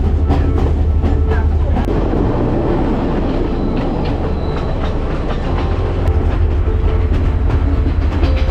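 Passenger train running on its rails: a loud steady low rumble with sharp clicks of the wheels over rail joints, thickest in the first couple of seconds and again from about six seconds in.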